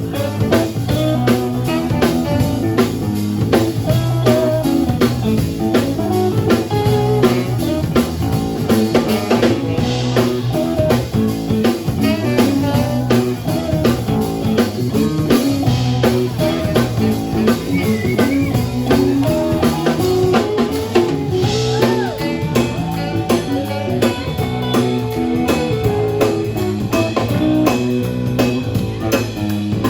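A live band playing an instrumental passage with no singing: a drum kit keeps a steady beat with rimshots under guitar and bass.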